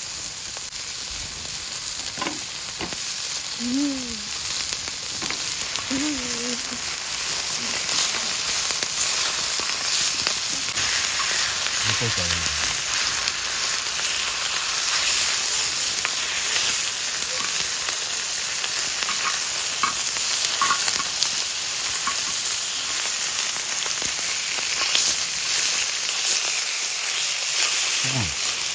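Pork belly sizzling hard on a large cast-iron pot-lid griddle over a very hot wood fire, a dense steady hiss with scattered small pops of spitting fat.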